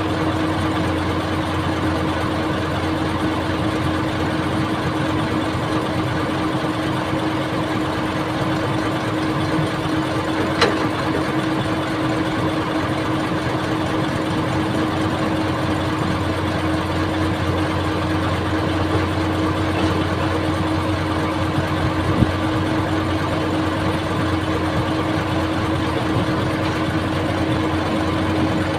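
Old excavator's engine running steadily with a constant hum, with two brief sharp knocks, one about a third of the way through and one about three-quarters of the way through.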